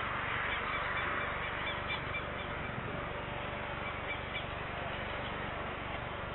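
Small birds chirping in short bursts over a steady outdoor hiss of background noise, the chirps clustered in the first couple of seconds and again about four seconds in.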